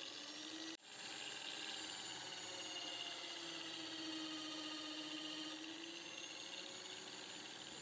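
Small electric power tool running steadily, its motor tone wavering slightly, with a sudden brief break about a second in.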